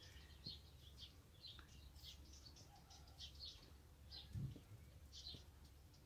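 Faint bird chirps: many short, high calls scattered through a near-silent outdoor background with a low steady rumble, and one soft low thump a little past four seconds in.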